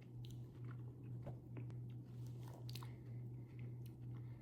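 A person chewing a soft gummy candy: faint, scattered mouth clicks and smacks over a steady low hum.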